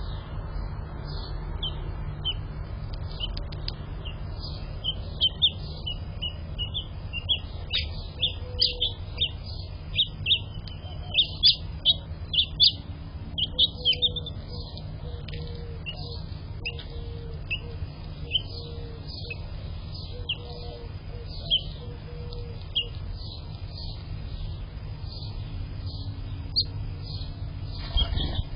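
House finches chirping: many short, high calls that come thickest in the middle and thin out toward the end, over a steady low rumble.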